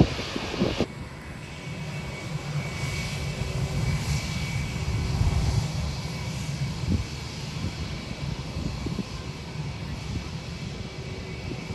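Jet airliner engines rumbling low and steady, swelling a little around the middle, with a faint high whine above the rumble.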